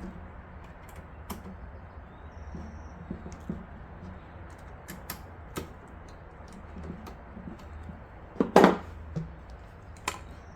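Irregular small clicks and taps of a PC power supply being fitted and fastened into a small metal computer case, with one louder knock about eight and a half seconds in.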